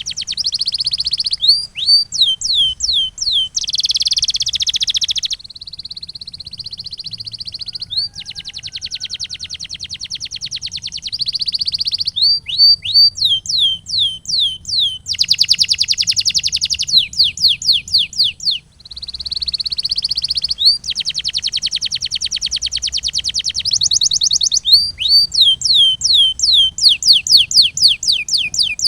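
Male canary singing a long continuous song. Fast rolling trills alternate with runs of sharp, falling whistle notes, several a second.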